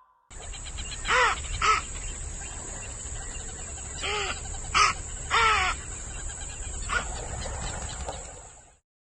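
An animal or bird calling: five short calls, each rising then falling in pitch. Two come about a second in and three more between about four and five and a half seconds, over a steady background hiss.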